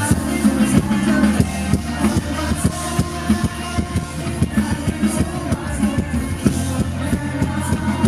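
Live pop-rock band playing on stage: drums hitting in a quick, even beat over a steady bass and guitars.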